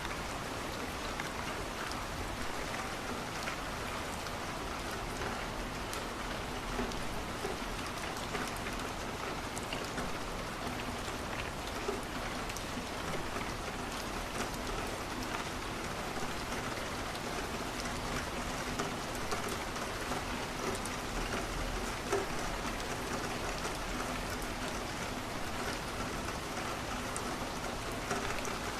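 Steady rain falling on a window, an even hiss with scattered sharp ticks and small pops from a crackling wood fire in a fireplace.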